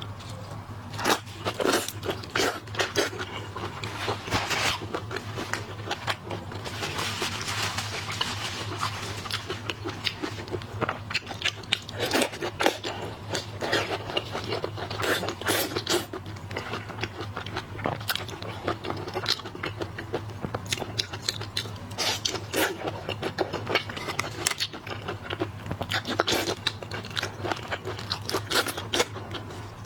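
Close-miked mukbang eating of shellfish: shrimp and crab shells cracking and being peeled with irregular crunches and crackles, and wet chewing, over a steady low hum.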